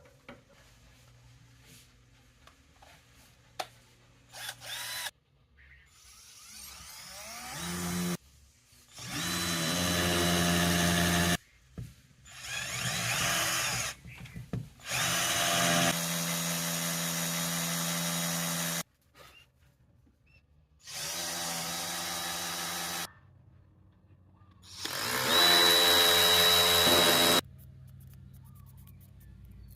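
Power drill run in about six short bursts, each spinning up with a rising whine, then holding a steady speed for a second or three before stopping abruptly.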